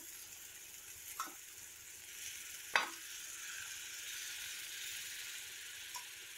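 Freshly added chopped cabbage sizzling in hot oil in a stainless steel kadai as it is stirred with a metal slotted spatula, which knocks against the pan three times, loudest about three seconds in.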